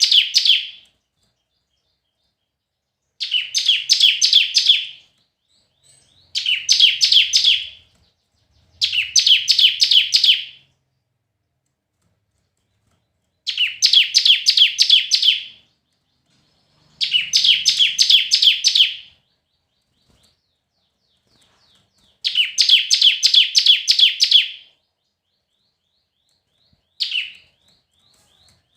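Bar-winged prinia (ciblek) singing: about seven high-pitched phrases of rapid, evenly repeated chirping notes, each lasting about two seconds, with pauses of a second or more between them.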